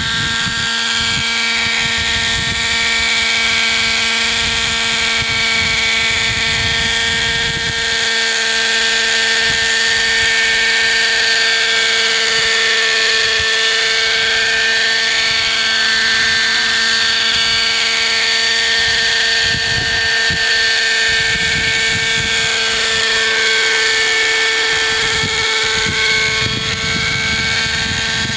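Hirobo Sceadu model helicopter's .50 size two-stroke nitro engine and rotors running steadily in flight, the pitch drifting slowly up and down now and then. The revs are lower than they should be because the fuel mixture isn't quite right. Uneven low buffeting comes and goes underneath.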